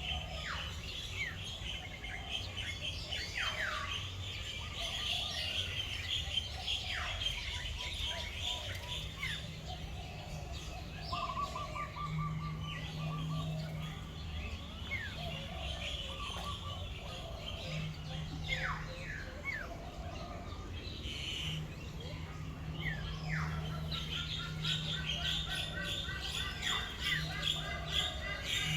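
Many birds chirping and calling at once, with quick down-slurred whistles and short rapid trills, a fast repeated trill standing out near the end.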